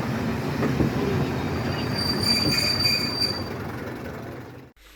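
Class 101 diesel multiple unit running along the line, a steady rumble of wheels on track, with a high-pitched steel wheel squeal rising in about a second and a half in and fading out about two seconds later. The sound cuts off abruptly near the end.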